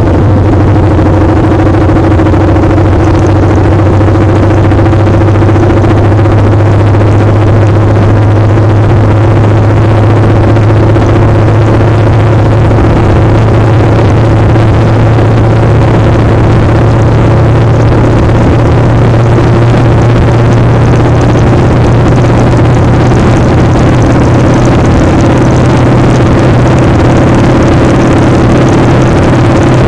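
Motorcycle engine running steadily under way, with loud wind noise on the microphone; the engine note rises slightly about two-thirds of the way through.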